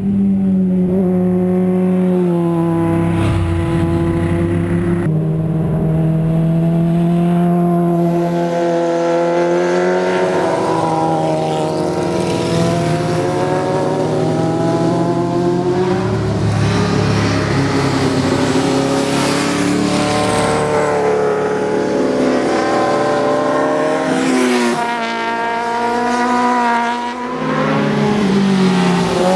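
Motorcycle engines running and revving, their pitch rising and falling slowly over several seconds, loud throughout.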